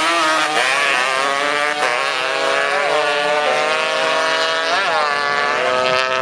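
Motorcycle engines running at high revs, several at once, the pitch mostly held steady with brief blips up and down.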